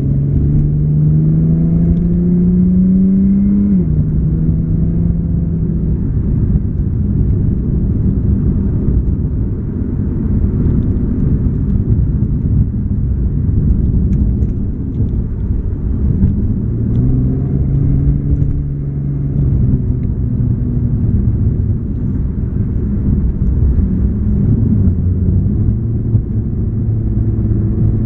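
Infiniti G37 sedan's 3.7-litre V6 heard from inside the cabin with the windows up, through a Topspeed Y-back exhaust and Berk high-flow cats. The engine pitch climbs under acceleration and drops sharply at a gear change about four seconds in, then sinks under steady road noise. It pulls and shifts again around the middle, then settles into a steady lower drone.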